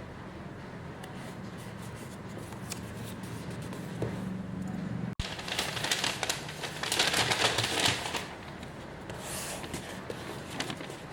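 Plastic packaging rustling and crinkling as it is handled, in irregular bursts, loudest a couple of seconds after a sudden cut about halfway in. Before the cut there is only a steady low hum with a few light clicks.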